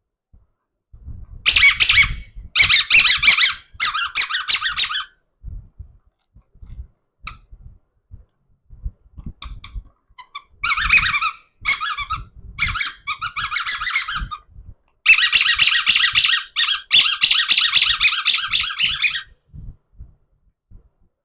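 Squeaky rubber toy squeaking loudly in repeated runs as it is squeezed and rubbed, with soft handling bumps between the runs.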